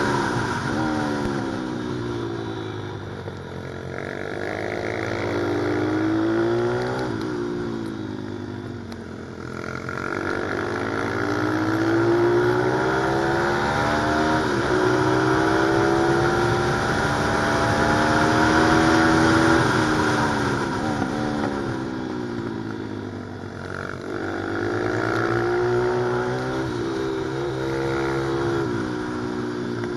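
Pit bike's single-cylinder engine revving hard through the gears, its pitch climbing in long pulls and dropping sharply again and again as it accelerates and slows on a track.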